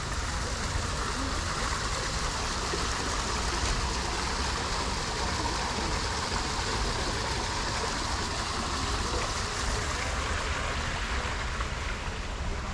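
Steady rush of running water that swells through the middle and eases near the end, over a constant low rumble.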